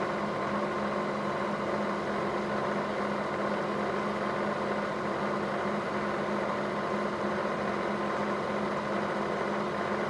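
Milling machine running steadily, a 3/16 inch end mill spinning and being hand-fed down into a brass insert to cut a shallow groove.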